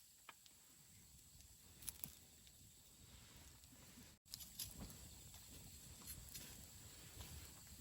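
Wood campfire burning with a faint crackle and scattered sharp pops. The sound breaks off for an instant about halfway through.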